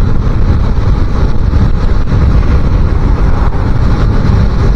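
Wind buffeting the microphone of a moving 250cc motorbike, a loud, steady rush with the bike's engine running underneath.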